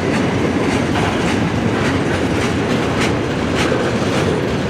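Freight cars of a long mixed freight train rolling past with a steady rumble. Repeated sharp clacks come from the wheels passing over rail joints.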